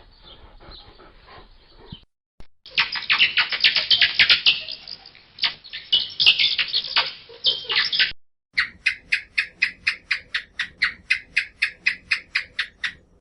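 Animal calls: a few seconds of dense, high chirping and chattering, then a short high call repeated evenly about four times a second.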